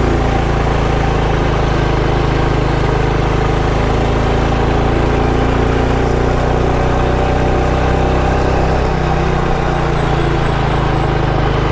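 Motorcycle engine running steadily, a constant hum that barely changes pitch, with faint high chirping near the end.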